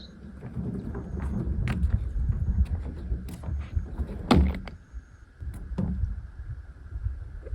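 Strong wind buffeting the microphone as a low, uneven rumble that swells and eases, with a few sharp clicks, the loudest about four seconds in.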